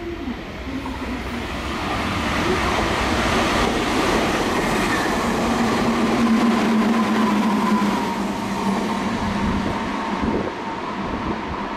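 Red Meitetsu electric train running through the station at speed without stopping: the rush of wheels and motors builds to a peak about halfway through, then fades as it moves away.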